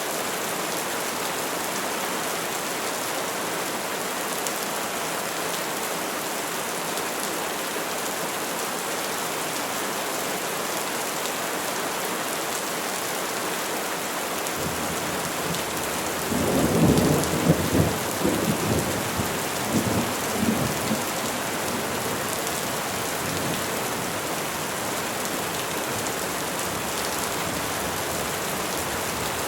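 Steady rain falling on trees, with a roll of thunder about halfway through that rumbles low for around five seconds and fades.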